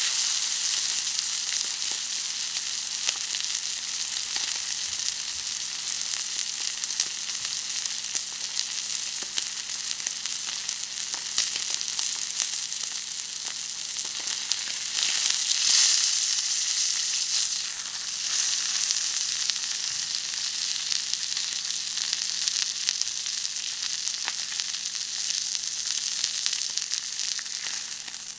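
Steak sizzling and frying on a hot iron griddle plate, a steady hiss that swells louder for a moment around the middle.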